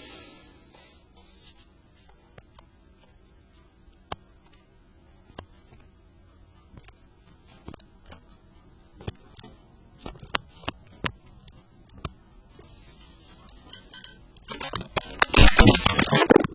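Handling noise: scattered small clicks and taps, then about two seconds of loud rustling and knocking near the end.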